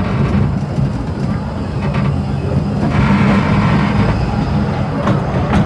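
Narrow-gauge passenger train running, heard from its open carriage: a steady rumble of wheels on the track with a few sharp rail clicks near the end, while a Hunslet 0-4-0T steam tank locomotive and its carriages pass close by on the next track.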